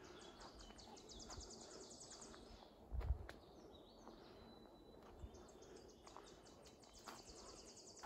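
A small songbird singing a faint, rapid high trill of evenly repeated notes, about two seconds long, twice. A dull low thump about three seconds in is the loudest sound, with a few soft footsteps on a dirt trail.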